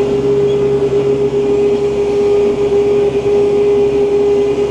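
Kubota diesel tractor engine running steadily at about 2,000 RPM under load while pulling a box scraper, heard from inside the cab as an even drone with a strong steady hum.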